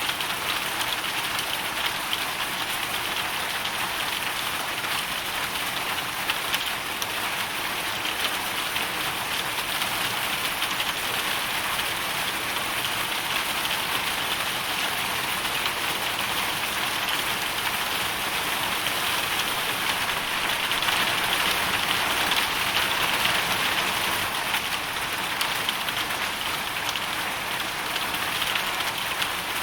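Hailstorm: hail and rain pelting down in a dense, steady patter of fine ticks, swelling slightly about twenty seconds in.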